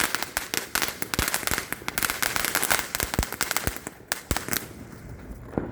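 A crackling firework going off, a dense rapid run of sharp pops that thins to a few last pops after about four and a half seconds.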